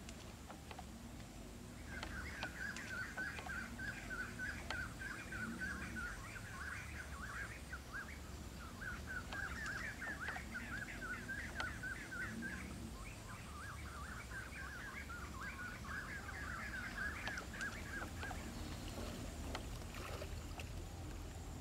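Bird chattering in long runs of rapid, short calls, in three bouts separated by brief pauses, over a low steady rumble of outdoor background noise.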